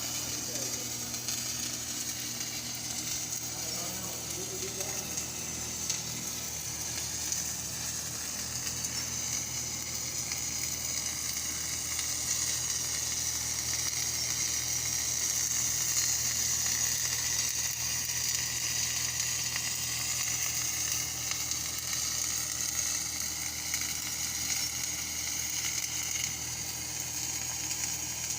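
Electric arc welding: a steady, continuous crackling sizzle from the arc as a bead is run.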